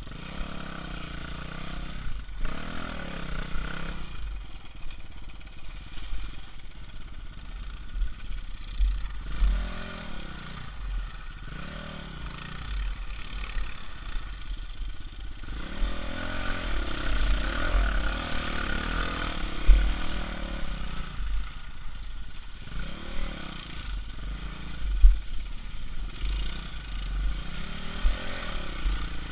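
Off-road motorcycle engines revving up and falling back again and again, with heavy wind rumble on the action camera's microphone. There are two sharp knocks, one about two-thirds of the way through and one a few seconds later.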